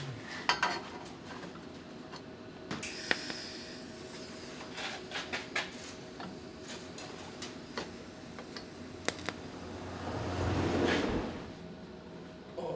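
Workshop handling sounds from exhaust pipe fabrication: scattered sharp metal clicks and knocks, a short hiss about three seconds in, and a swelling rush of noise near the end.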